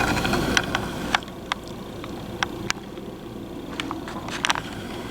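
Steady wind blowing, with a dozen or so scattered short, sharp sounds.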